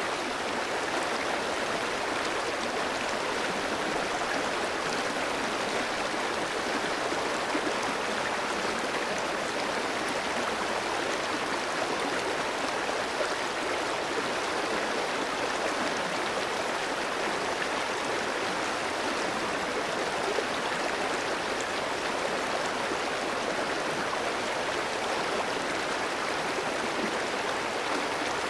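A clear stream flowing over rocks, a steady rushing and babbling of water.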